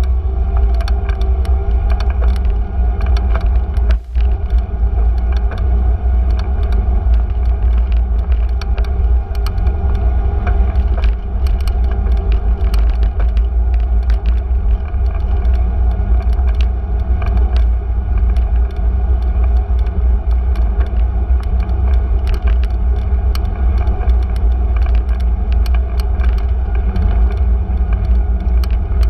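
Bicycle riding through city streets: a steady low rumble from the ride, with frequent small clicks and rattles throughout and a brief drop about four seconds in.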